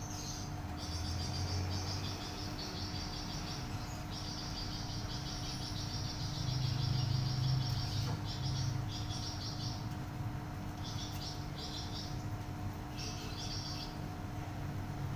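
A bird sold as a flamboyan songbird, singing shrill, tightly packed trilled phrases in a series of bursts: one long run through the first half, then shorter bursts separated by pauses. A steady low electrical hum runs underneath.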